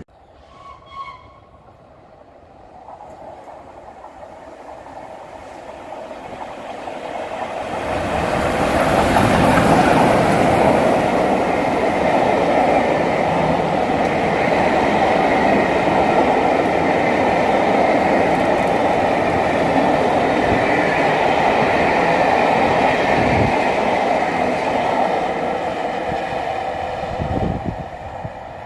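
A train passing on the tracks: its rumble builds over several seconds, stays loud with wheels running over the rails, then fades away near the end.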